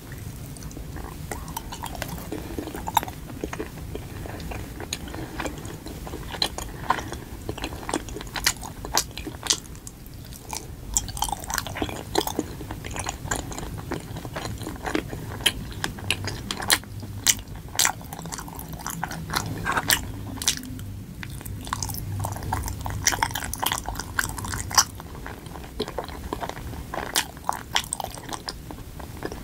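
Chewing of a soft, sticky injeolmi rice cake filled with white bean paste, with many sharp, wet mouth clicks throughout.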